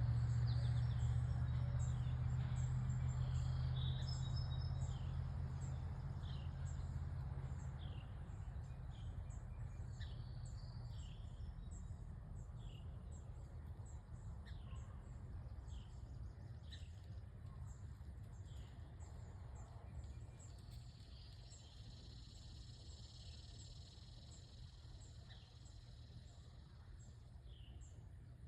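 Garden birdsong: a bird repeats short, falling chirps about once a second, with a higher, thinner chirp repeating about twice a second behind it. A low hum fades away over the first several seconds.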